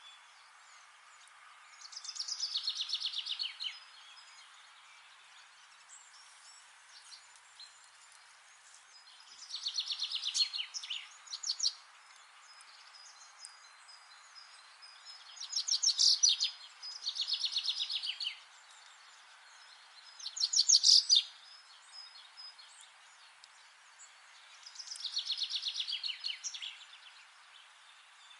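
A songbird singing short, fast trills of rapidly repeated notes that drop in pitch, about six phrases a few seconds apart, over a steady faint hiss of forest ambience.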